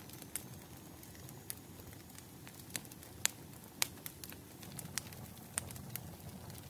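Bonfire burning, with irregular sharp crackles and pops of burning wood, about nine in all, over a low steady rumble of the flames.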